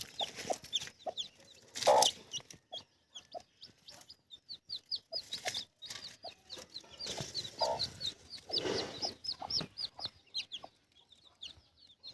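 Chicks peeping continuously in short, high, falling chirps, with a hen clucking now and then among them.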